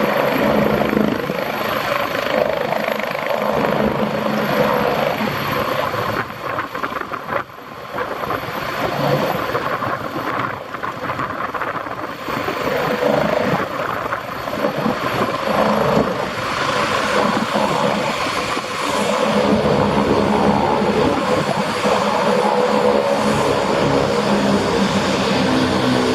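Leonardo AW109 Power twin-engine turbine helicopter running, its rotor and turbine sound continuing throughout, with a brief drop in loudness about seven seconds in.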